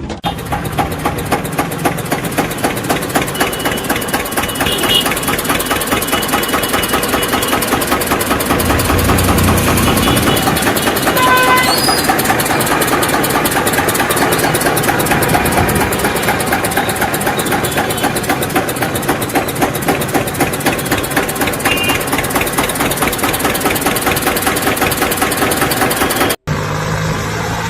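An engine running steadily with a rapid, even chugging pulse. A short high tone sounds about eleven seconds in, and the sound cuts out for an instant near the end.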